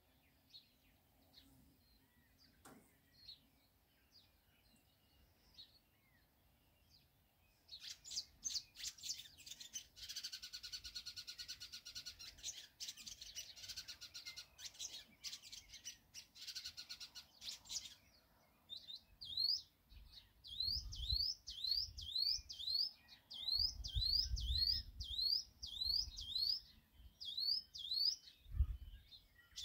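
High bird chirping. Faint chirps at first, then a dense, buzzing high chatter lasting about ten seconds, followed by a long run of short rising chirps at about two a second.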